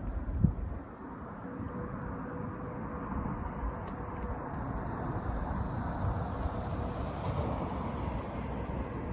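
Steady outdoor rushing noise with a low rumble, and a single short thump about half a second in.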